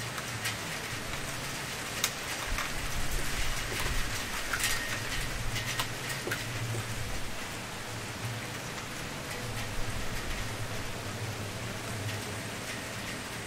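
Wood campfire burning: a steady hiss with frequent sharp crackles and pops, the loudest pops about two seconds in and again around four seconds.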